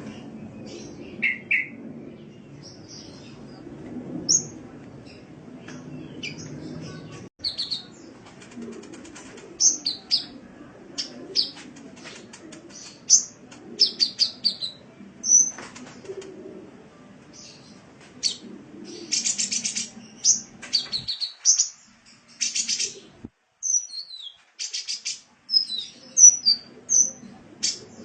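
Sunbird (kolibri) song: rapid, high-pitched chirps, whistled notes and short buzzy trills in quick bursts. Longer rattling trills come in past the middle.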